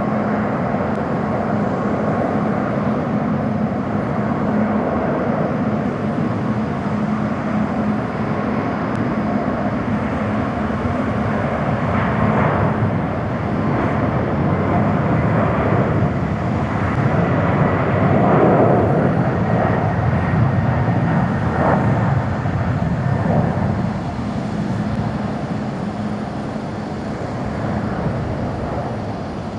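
Boeing 777-300 airliner's twin jet engines at takeoff thrust: a loud, steady rumble with a low hum through it, swelling about eighteen seconds in and easing off near the end as the aircraft departs.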